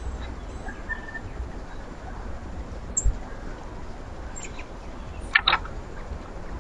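Backyard birds at a feeder: a faint short call near the start, a light click about three seconds in, and two quick sharp chip-like sounds near the end, over a steady faint outdoor background.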